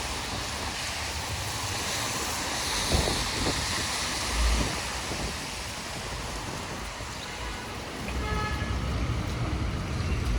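Wind buffeting the microphone over a steady hiss of wet road and traffic while riding an electric unicycle in the rain, with low gusty rumbles. A faint high tone comes in during the last couple of seconds.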